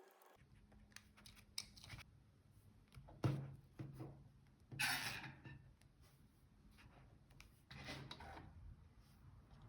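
Paper and stationery being handled for diary decorating: light taps and paper rustles, with a louder rustling scrape about five seconds in and another near eight seconds.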